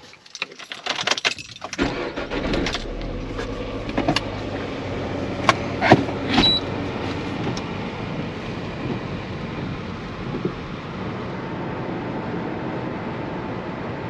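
A car being started and driven off: clicks and rattles, then the engine starts about two seconds in and runs steadily, with a few sharp clicks and knocks in the first half.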